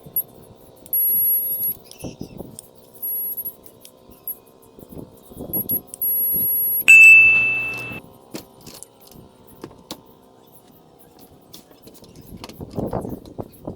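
A UPS unit's piezo buzzer gives one loud, piercing beep of about a second, seven seconds in. Before it come several short, very high-pitched whines, with light metallic clicks and clatter from handling the unit over a steady low hum.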